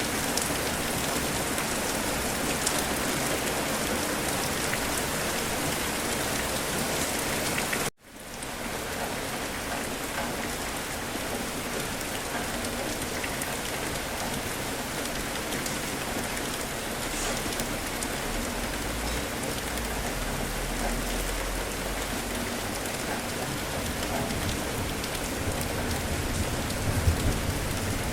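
Steady heavy rain falling and pattering on surfaces, with a sudden brief break about 8 seconds in. A low rumble builds near the end.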